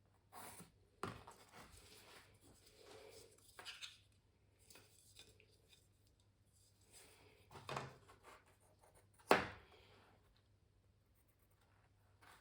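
Faint pencil strokes scratching on canvas in short bursts, with a few sharp taps, the loudest about nine seconds in.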